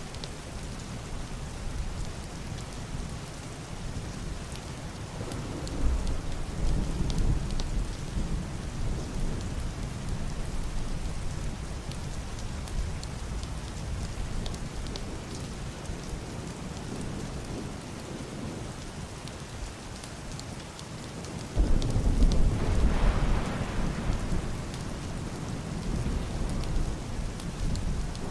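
Heavy rain on a roof and window glass: a steady hiss with scattered drop ticks. Deep, muffled thunder rolls twice: a rumble about six seconds in, and a louder one that breaks in suddenly past twenty seconds and dies away over several seconds.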